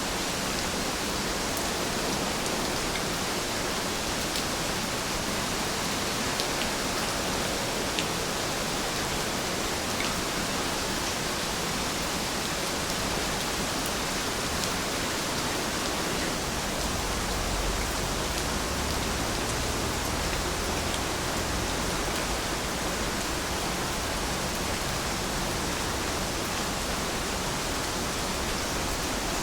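Steady rain falling, an even hiss with scattered faint droplet ticks and a slight low rumble about two-thirds of the way through.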